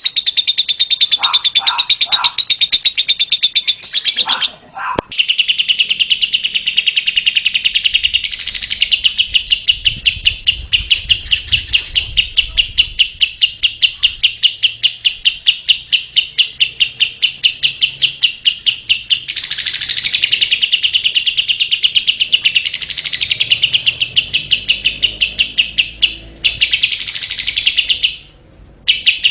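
Fischer's lovebird singing: a long, fast run of repeated chirps, several a second, broken by a few louder flourishes and two short pauses, one about four seconds in and one near the end.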